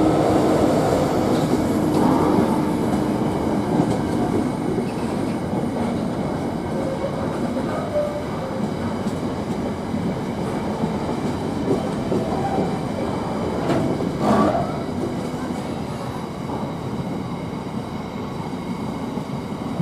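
Freight train hauled by a Class 66 diesel locomotive passing, its wagons rolling by on the track in a continuous rumble and rattle, with a brief sharp noise about fourteen seconds in; the noise eases slightly toward the end.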